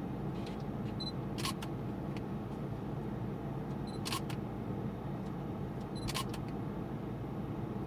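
Steady low hum inside a stationary Lexus GS450h's cabin as it waits to set off on track. Three short, sharp clicks, each with a brief high tone, come about 1, 4 and 6 seconds in.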